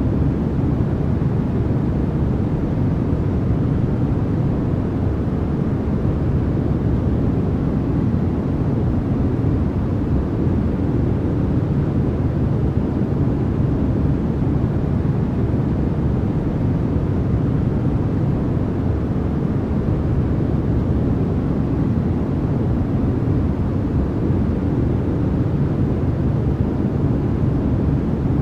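Steady generated noise with no breaks or changes, deep and rumbly rather than hissy, its weight low in pitch and thinning out toward the top.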